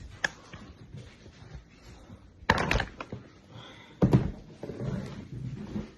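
A few sharp knocks and thuds in a small room: a cluster about two and a half seconds in and another about four seconds in.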